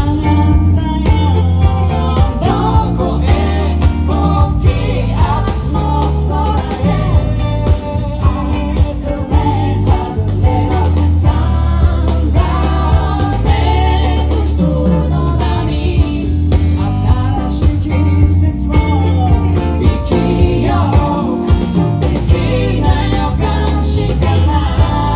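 Live band playing a pop-rock song with bass, drums and guitar under a steady beat, with singing over it.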